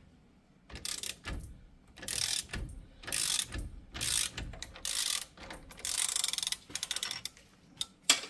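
Socket ratchet clicking in repeated strokes, about one a second, as it backs off the forcing screw of a wheel bearing hub removal tool.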